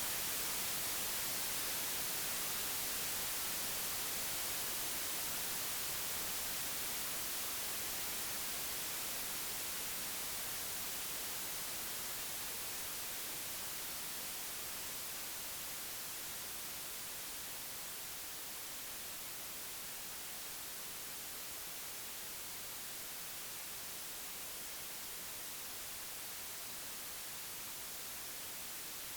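Computer-generated white noise: a steady, even hiss that slowly gets quieter through the first two-thirds, then holds level.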